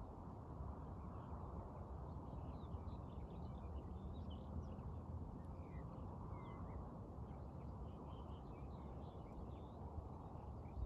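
Small birds chirping and twittering in quick, scattered calls over a steady low rushing background noise.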